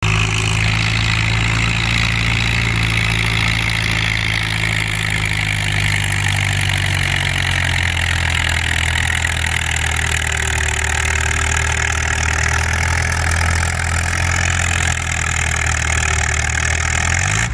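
Farm tractor engine running steadily and hard, as when pulling a weight sled, its pitch sagging a little about seven seconds in.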